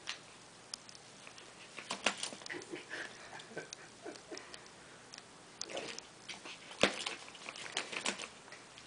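A dog chewing and mouthing a big chew toy: irregular clicks, scuffs and gnawing noises, with a sharp knock about seven seconds in as the loudest.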